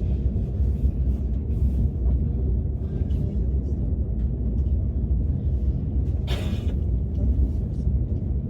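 Steady low rumble of a KTX high-speed train's passenger cabin while the train is moving, with one brief rustling noise about six seconds in.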